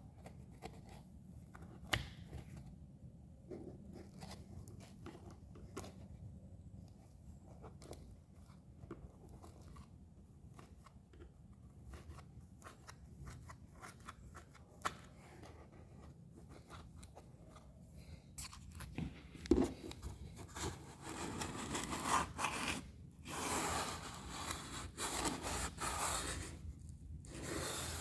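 Black packing foam being pushed and worked into a gap in the hardtop by hand: scattered small clicks and crinkles, then louder, busier rubbing and scraping from about two-thirds of the way in.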